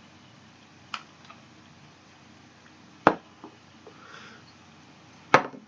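A few sharp clicks and taps of small plastic candy-kit pieces being handled while the tray is filled with water, the two loudest about three and five seconds in.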